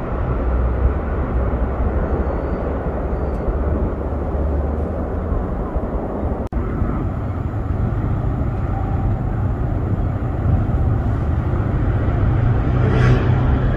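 Steady low outdoor rumble at a railway station trackside, broken by a sharp click from an edit about halfway through; in the second half the low rumble of a distant approaching train grows a little stronger.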